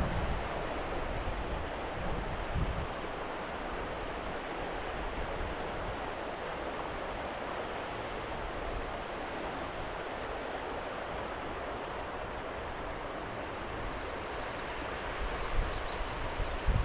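Steady rush of running water from a hill burn. A few faint bird chirps come near the end.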